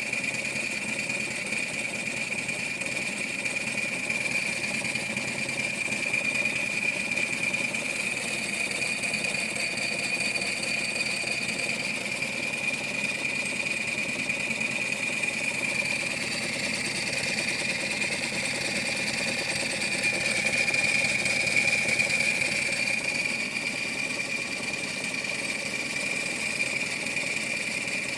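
LBSC 'Ayesha' live-steam model locomotive running under test after axle pump repairs: a steady rapid mechanical knocking from the motion and axle pump, with a steady high hiss over it, getting a little louder about two-thirds of the way in.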